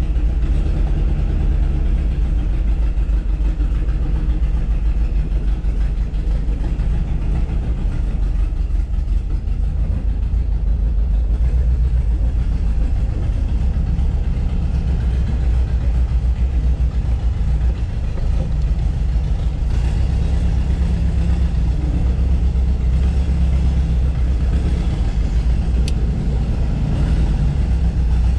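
Air-cooled flat-four boxer engine of a 1985 Volkswagen Fusca (Beetle) running steadily while the car is driven, a low, even drone.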